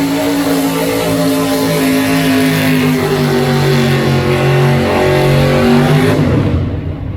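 A pulling vehicle's engine running hard as it drags the weight sled, its note slowly dropping as it slows under the load. The throttle is cut about six seconds in, leaving a lower rumble as the run ends.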